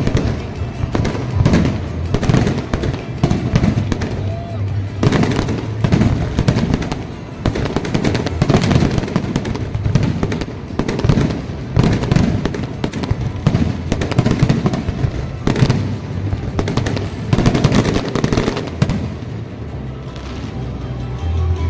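Fireworks display going off: many bangs in quick succession, thinning out a little near the end.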